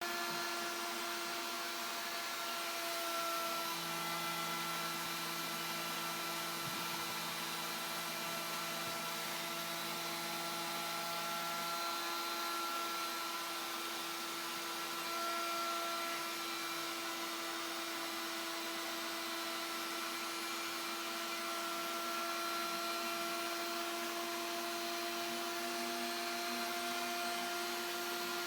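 CNC milling machine running with coolant: a steady whine of several held tones over an even hiss. A lower hum comes in about four seconds in and drops out around twelve seconds.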